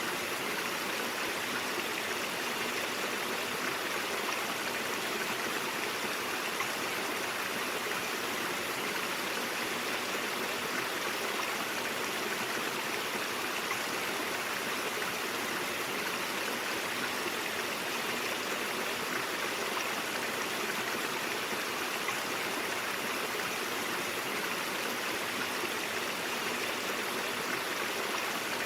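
A brook's water flowing in a steady, even rush that doesn't change.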